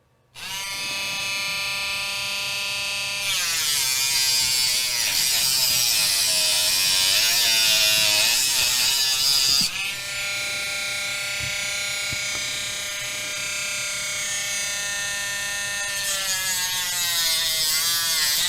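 Dremel rotary tool starting up and running with a high whine. From about three seconds in to about ten seconds it grows louder and its pitch wavers and dips as it cuts through a wooden popsicle stick, then it runs steadily again.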